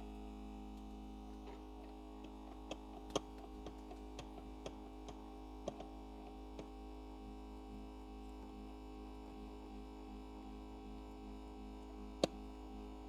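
Steady hum from the LCD separator machine with its vacuum running, with scattered light ticks and clicks over the first half and one sharp click near the end as a fine cutting wire is worked between the phone's outer glass and display.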